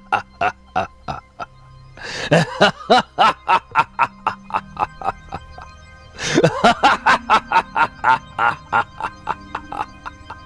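Maniacal laughter from a cartoon voice going mad, in three bouts of rapid 'ha-ha' pulses about four a second, over background music.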